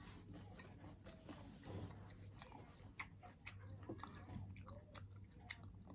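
Faint chewing of food close to the microphone, with a few soft clicks from the mouth.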